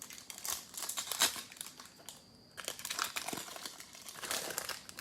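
Crinkling and rustling from a pack of trading cards being handled: the wrapper and cards are being worked through in two stretches, with a short pause about two seconds in.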